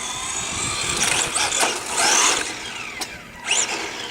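Electric RC car motor whining as the car accelerates and slows, its pitch sweeping up and down, with a louder rush of noise about two seconds in.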